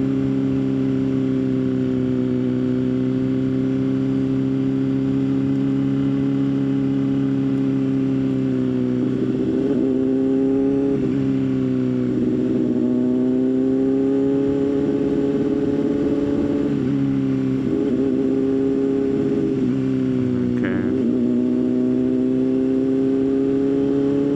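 Motorcycle engine running at a steady cruise, heard from the bike. Its pitch dips and climbs again several times in the middle with changes of throttle and gear.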